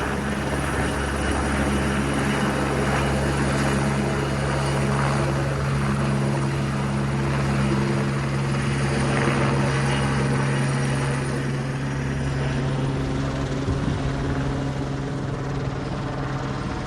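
Twin Squirrel twin-turbine helicopter hovering close by with an underslung load, a steady rotor drone and turbine sound that eases slightly in level late on.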